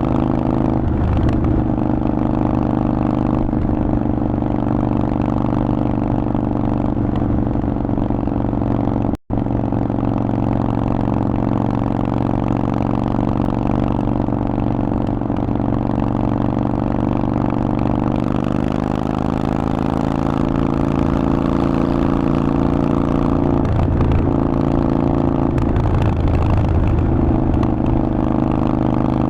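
Harley-Davidson Forty-Eight's air-cooled V-twin running steadily through a Vance & Hines exhaust, its note rising slightly about two-thirds of the way in. The sound cuts out for an instant about nine seconds in.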